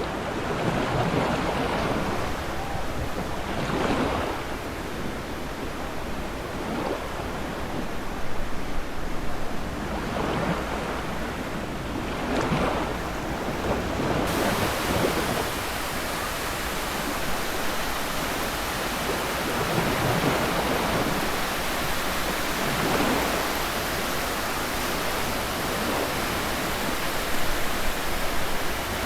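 Surf on a beach: waves swelling and breaking every few seconds, with wind on the microphone.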